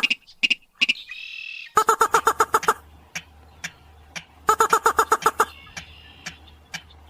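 Sintar (mandar padi) rail calling: rapid series of harsh clipped notes, about ten a second, in two bursts about a second long, the first preceded by a short buzzy note, with scattered single notes in between.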